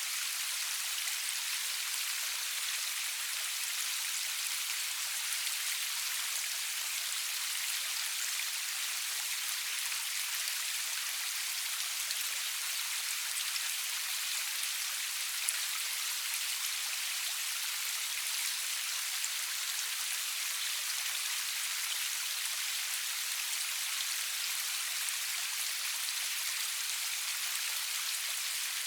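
Steady rain falling, an even hiss of many drops with faint individual patters, without thunder or music.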